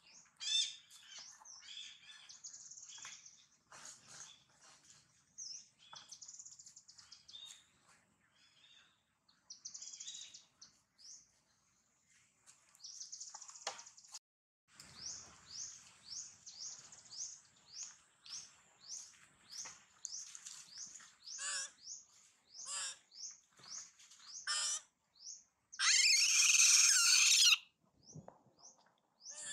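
Wild birds chirping: many short, high chirps, settling into a quick run of falling chirps at about two a second, with one louder, harsh call lasting about a second and a half near the end.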